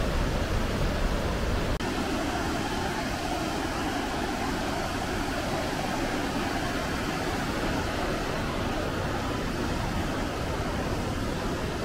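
Steady rush of turbulent white water on the Wailuku River at the Boiling Pots. A brief dropout comes about two seconds in, and there is a heavier low rumble before it.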